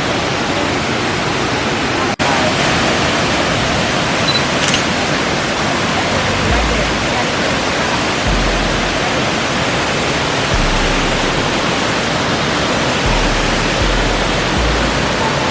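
Waterfall: falling water making a steady, loud rushing noise, broken by a brief dropout about two seconds in, with some low rumbling on the microphone in the second half.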